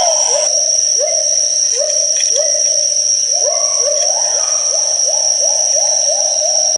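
Great argus pheasant calling: a series of short rising notes that come faster and closer together toward the end, over a steady high-pitched whine.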